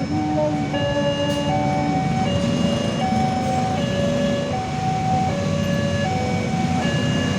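Railway level-crossing warning alarm playing a simple electronic melody of stepped tones, over a steady low rumble.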